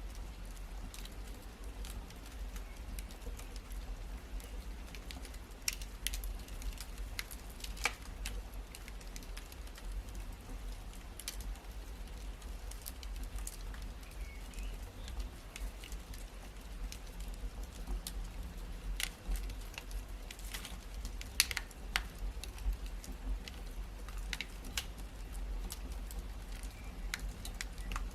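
Wood fire crackling in a fireplace: irregular sharp pops and snaps scattered over a steady low rumble of the flames, with a few louder pops near the middle and about three quarters of the way through.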